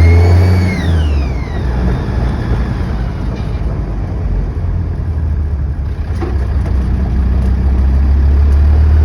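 Land Rover Defender TD5 five-cylinder turbodiesel coming down off a rev. A high whirring whine falls in pitch and fades over the first second or two, then the engine runs at a steady low idle. The owner hears this whine on boost but has not found its cause: the air box, exhaust manifold, intercooler, turbo and EGR have been ruled out.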